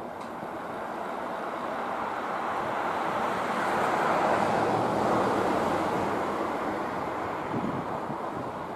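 A vehicle passing by: a rushing noise that builds to its loudest about halfway through, then fades away.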